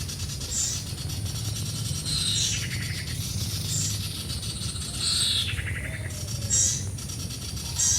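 Small birds calling: a short high call repeated about every second and a half, with lower chirping notes between, over a steady low hum.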